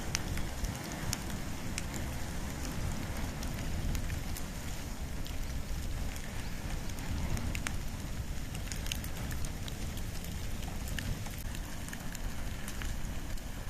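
Wood and bamboo fire burning steadily with a low rumble and frequent scattered crackles and pops.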